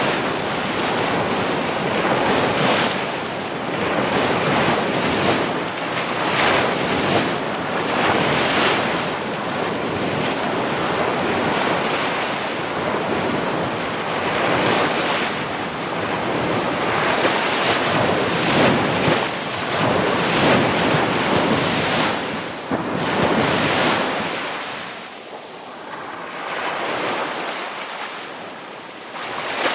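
Ocean surf: waves breaking and washing in one after another, the rush of water swelling and easing every few seconds. Near the end it drops to a quieter lull before the next wave builds.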